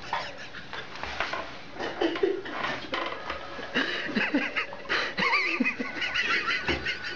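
People laughing and chuckling. In the second half come high, wavering animal calls.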